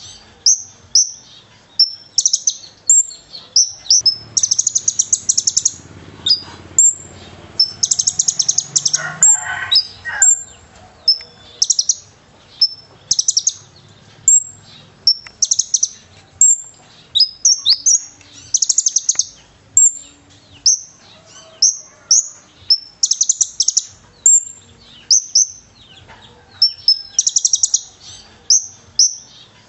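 A konin songbird singing continuously in short, high-pitched, rapid chattering phrases and buzzy trills, repeated about once a second, in a song filled with mimicked cililin calls.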